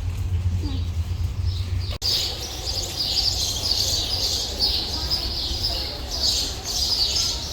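A low rumble that cuts off sharply about two seconds in, followed by many small birds chirping all at once, steady chatter through the rest.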